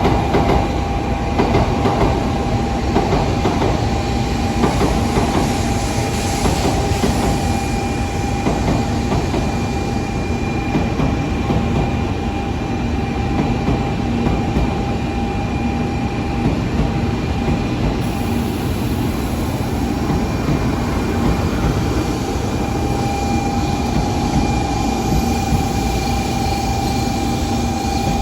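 Shinkansen train at the platform giving a steady rumble and hum, with a few held tones over it and no change in level.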